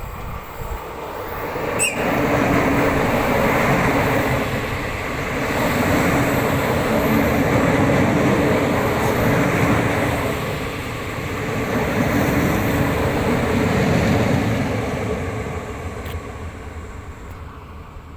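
Passenger train passing close by on its way out of the station: the running noise of wheels on rails builds, with a sharp click about two seconds in, stays loud with slow swells for about twelve seconds, then fades as the train draws away.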